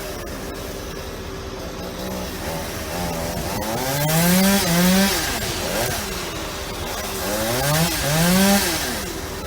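Chainsaw running near idle, then revved up twice, its pitch climbing each time as it bites into wood while cutting up a tree.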